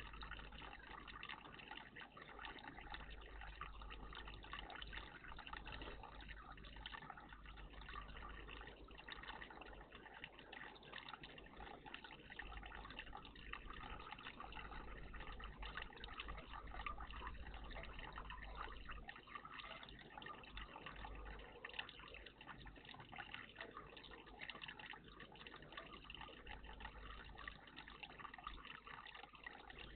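Water trickling and splashing steadily in a garden bird bath.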